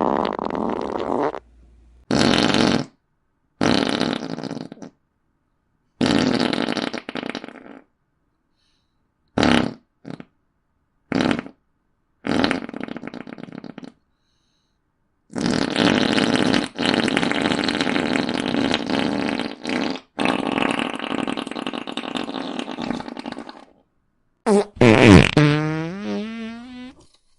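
A run of fart sound effects, about ten separate farts of varying length. Some are short blips of a fraction of a second, and one near the middle drags on for several seconds. The last is a pitched fart whose pitch wobbles up and down.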